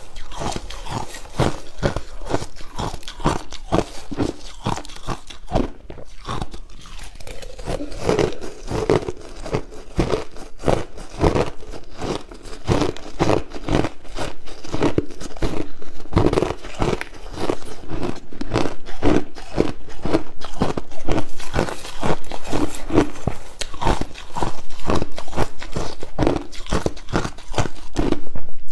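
A person biting and chewing crushed ice close to the microphone: a fast, continuous run of loud crunches, growing louder in the second half.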